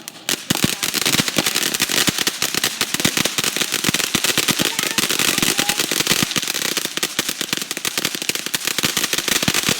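Firecrackers going off in a rapid, continuous string of sharp cracks, starting about half a second in and not letting up.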